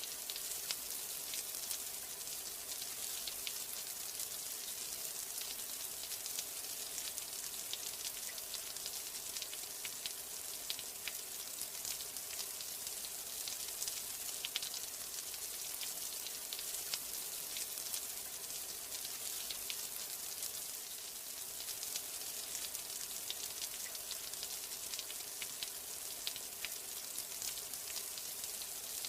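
Steady rain: a dense patter of small drops over an even high hiss, with no change in strength.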